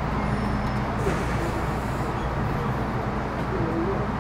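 Interior running noise of an MTR Metro Cammell M-Train (CT-Stock) electric multiple unit with GEC GTO chopper traction: a steady low rumble with a steady electrical hum underneath.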